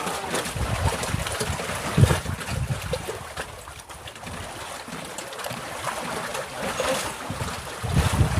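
Rough water lapping and slapping against a floating fishing raft, with wind buffeting the microphone in uneven gusts that are strongest about two seconds in and near the end.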